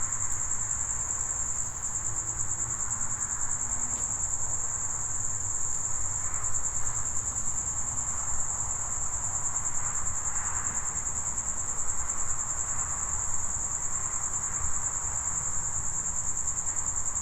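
Crickets trilling in a steady, high-pitched chorus that does not stop, with a faint low rumble underneath.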